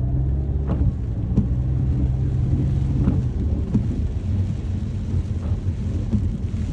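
Rain falling over a steady low rumble, with scattered sharp ticks of drops; the rumble carries a low hum that fades about halfway through.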